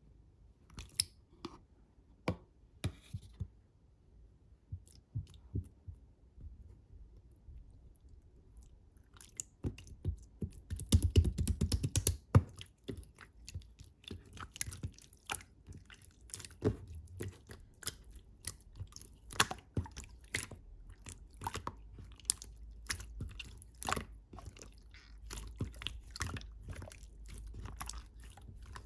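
Clear slime worked by hand, pressed and poked, giving sticky clicks and little pops. The clicks are sparse at first and turn dense and louder from about ten seconds in.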